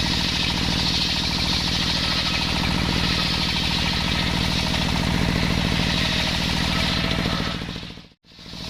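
Engine of a homemade circular saw machine running steadily with an even, rapid beat and a strong hiss above it. It fades out briefly near the end and comes back.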